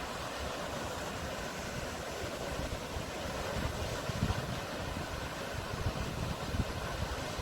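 Sea waves washing in a steady rush, with wind buffeting the microphone in low uneven gusts from about the middle on.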